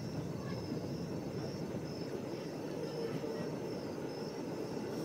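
Distant train giving a low, steady rumble, with a faint high chirping repeating about twice a second over it.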